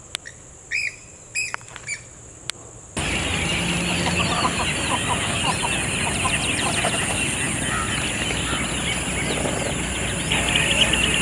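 A few scattered bird calls, then from about three seconds in a dense chorus of many birds calling and chattering at once, typical of a waterbird colony at a lake. A thin, steady, high insect drone runs underneath.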